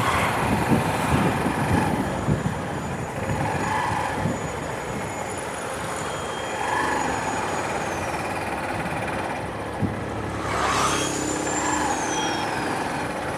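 Motorbike ridden at low speed on a village road: engine running and road noise, with wind buffeting the microphone.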